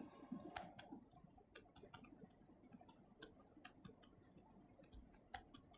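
Faint, irregular light clicks and taps of a stylus writing on a tablet, over near silence.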